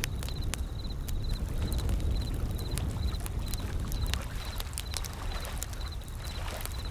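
Wood fire crackling with scattered sharp pops over a low, steady rumble of ocean waves, with a small high chirp repeating about twice a second.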